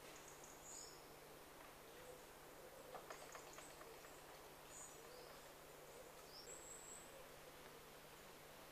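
Quiet woodland ambience: faint, scattered high bird chirps, with a soft low call recurring now and then.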